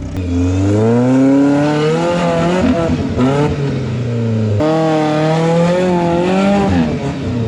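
Off-road rock-crawling truck's engine revving under load, the pitch climbing and falling as the throttle is worked, with abrupt breaks about half a second in and again past four and a half seconds.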